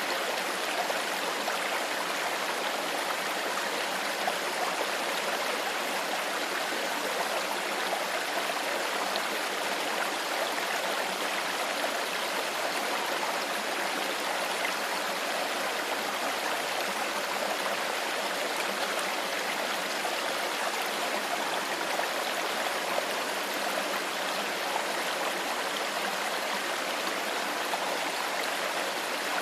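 A shallow stream flowing steadily over rocks, an even rushing and gurgling of water.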